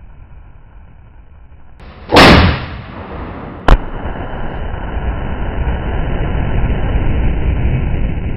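Rifle fire and exploding Tannerite targets: a loud blast with a short rumbling tail about two seconds in, then a second, sharper bang about a second and a half later. A steady low rumble follows the bangs.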